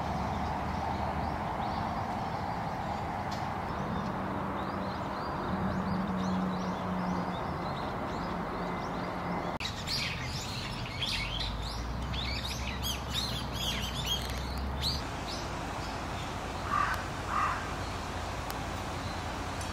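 Birds chirping in quick twittering runs for several seconds, over a steady outdoor background hiss that changes abruptly about halfway through; two short, lower calls follow near the end.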